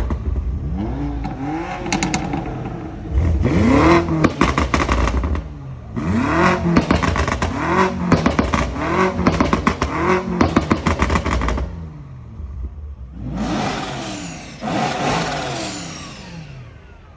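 BMW M car engines blipped hard again and again, each rev climbing and dropping in about a second, with rapid crackling from the exhausts. A short lull comes about twelve seconds in, then another set of revs.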